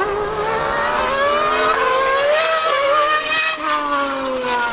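High-revving racing engine accelerating hard, its pitch climbing with brief dips at gear changes. About three and a half seconds in, the pitch turns and falls away as it passes.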